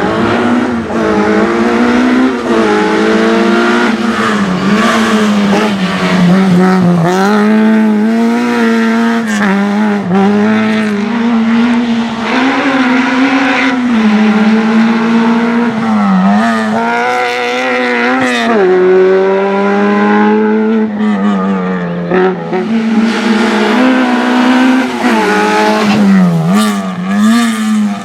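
Modified Autobianchi A112's four-cylinder engine revving hard, its pitch rising and dipping again and again as it is driven flat out, with tyres squealing in places.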